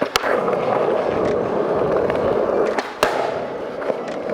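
Skateboard wheels rolling on smooth concrete, with a sharp clack just after the start and another about three seconds in. The rolling is loud at first and quieter after the second clack.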